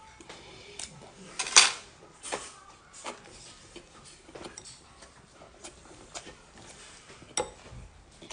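Close-up eating sounds of a mouthful of seafood being eaten, with many short sharp clicks and clinks throughout. The loudest is a brief noisy burst about a second and a half in.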